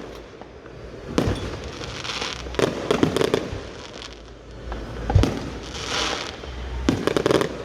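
Fireworks going off: a sharp bang about a second in, a cluster of rapid crackling pops around three seconds, another bang past five seconds, a crackling fizz after it, and a burst of rapid pops near the end.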